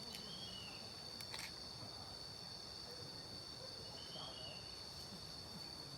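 Forest insects, crickets or cicadas, keeping up a steady high-pitched drone. A short falling chirp comes twice, near the start and again about four seconds in, and there is a brief click.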